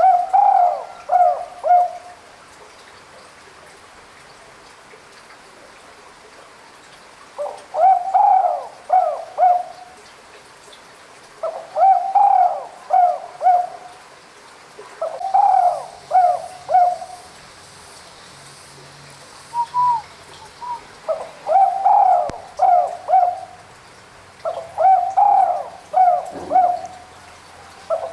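Spotted dove (tekukur) cooing: six repeated phrases, each of three or four mellow coo notes, separated by pauses of a second to several seconds.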